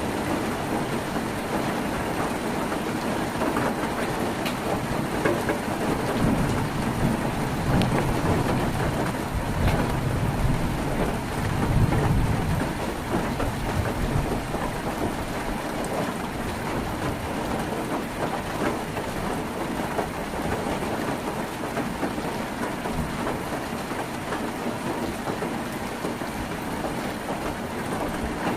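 Heavy rain falling on a tin roof, a dense steady patter with scattered sharper drop ticks. A low rumble swells through the middle and peaks about halfway through.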